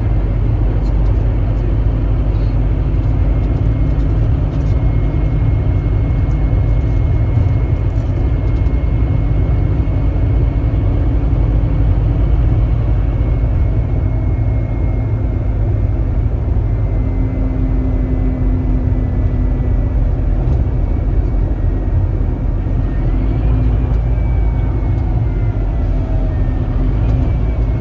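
Scania K310IB bus under way: its nine-litre five-cylinder diesel runs steadily under road noise. A faint high whine rises about two-thirds of the way through, and several tones fall away near the end.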